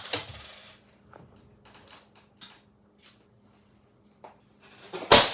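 A suppressed precision rifle fires one loud shot about five seconds in, its report trailing off afterwards. Before it, a few faint clicks and taps.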